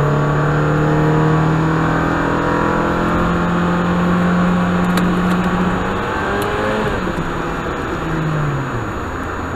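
1989 Honda Accord LXi's four-cylinder engine pulling under full throttle through its automatic transmission, the engine note climbing steadily. About six and a half seconds in the note breaks and drops, and it falls again near the end.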